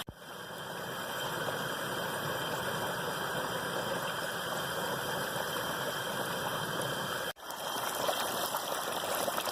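Turkey fryer at work: hot oil bubbling and sizzling steadily around a whole turkey frying at about 350°F. The sound breaks off for an instant about seven seconds in.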